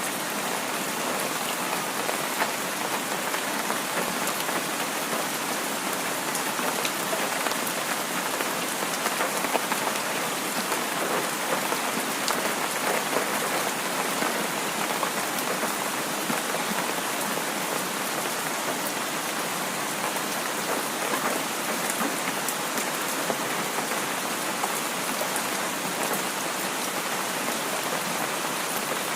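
Heavy rain falling steadily, a dense even hiss with individual drops ticking on a surface.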